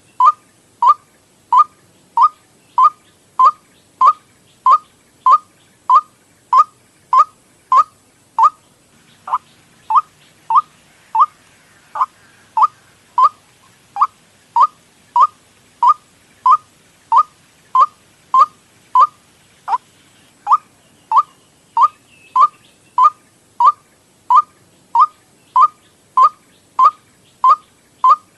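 White-breasted waterhen (ruak-ruak) lure call: one short, clear note repeated evenly about one and a half times a second, with a brief break about a third of the way in.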